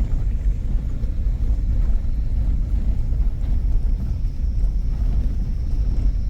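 Suzuki Jimny driving: a steady low rumble of engine and road noise.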